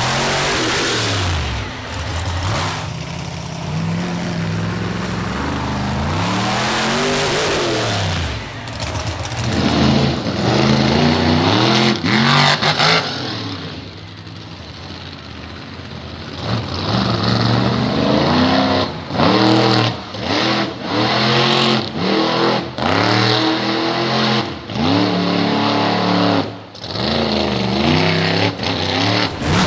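Monster truck engine revving hard through a freestyle run, its pitch climbing and falling again and again. It eases off for a couple of seconds about halfway through, then comes back in quick, short blips of throttle about once a second.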